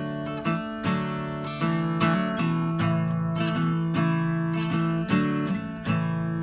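Acoustic guitar strummed in the key of A, a song's instrumental intro with steady strums about twice a second.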